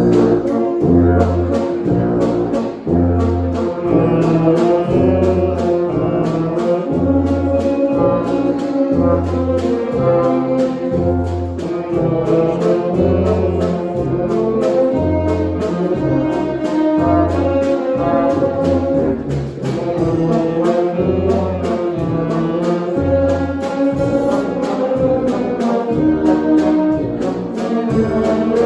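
Brass band playing a waltz: sustained brass chords over a regular, repeating low bass note that marks the beat.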